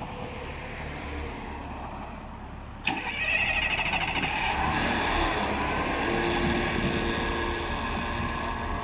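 A New Flyer XN40 city bus's natural-gas engine starting: it catches with a sudden burst about three seconds in, then runs up and settles into a steady idle.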